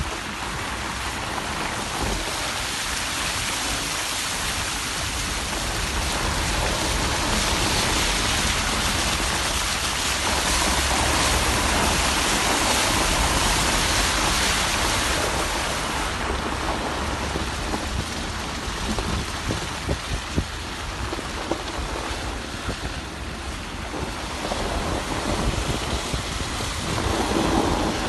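Heavy rain pouring down steadily, growing louder about a quarter of the way in and easing off somewhat past the middle.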